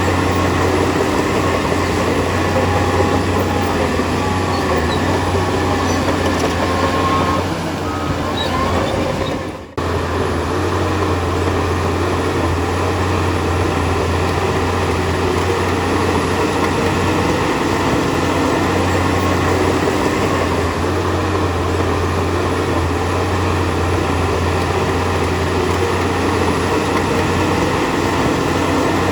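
Bulldozer diesel engine running steadily under load, a constant low drone with metallic track noise over it. It dips and cuts off abruptly a little under ten seconds in, then resumes at the same level.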